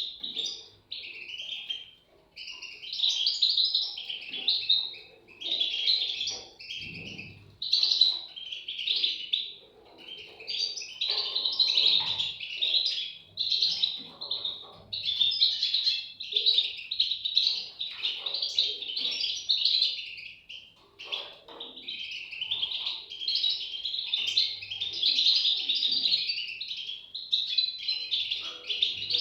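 European goldfinch chicks chirping, a dense, high-pitched stream of calls with a few brief pauses.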